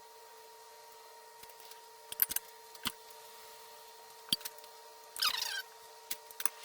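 Scattered clicks and knocks of hand tools handled on metal parts, with a short scrape about five seconds in that falls in pitch, over a steady hum.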